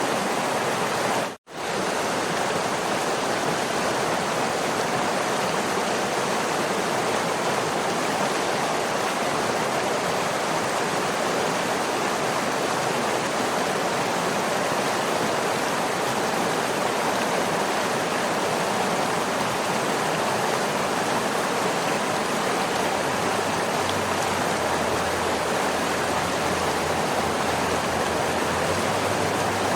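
Waterfall: steady rushing water, which cuts out for a split second about one and a half seconds in, then resumes unchanged.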